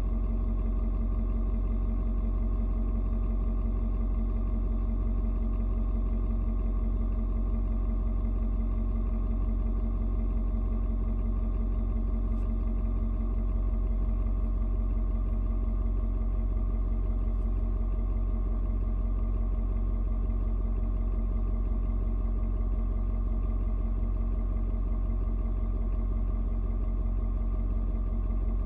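Ford Super Duty's 6.7-litre Power Stroke V8 turbo diesel idling steadily while still cold, shortly after a cold start. The idle has mellowed out and holds an even tone now that the engine management has set its fueling for the outside temperature.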